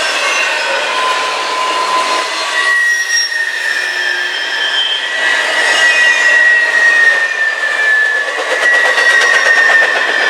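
Train rolling past with its wheels squealing: several high, sustained tones that drift slowly in pitch over the running noise of the cars, with rapid clicking near the end.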